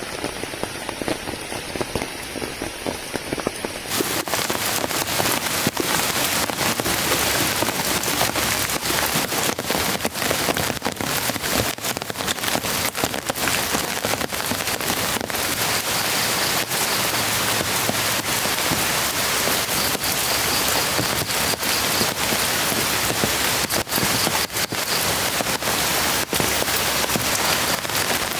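Heavy rain in a storm, a dense steady patter of drops hitting a surface. About four seconds in it turns suddenly louder and brighter.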